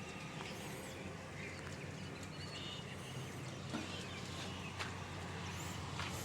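Outdoor ambience with faint bird calls and a few scattered small clicks over a steady low hum.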